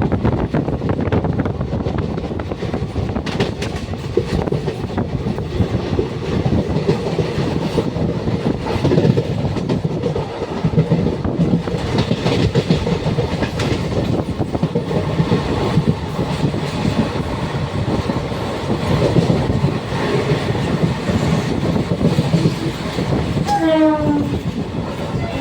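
Passenger train running on the rails, a steady rumble and clatter of the carriages. Near the end a horn sounds briefly, its pitch falling slightly.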